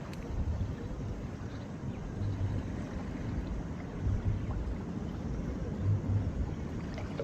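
Deep bass thumps from loud music, about one every two seconds, under the rush of wind on the microphone.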